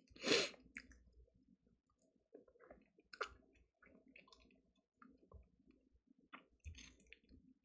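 A person chewing crispy fried chicken close to the microphone: scattered small crunches and wet mouth clicks, with one louder burst about half a second in.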